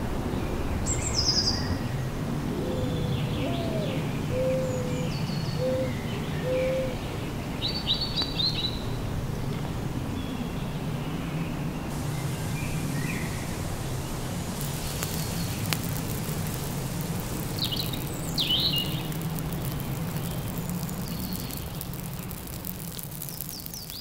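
Small birds giving short, high chirps and calls scattered throughout, over a steady low background rumble. A row of four short lower notes comes about three to seven seconds in.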